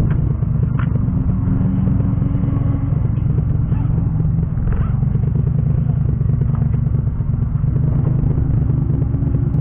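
Car engine idling steadily, heard from inside the stationary car's cabin as a low, even rumble.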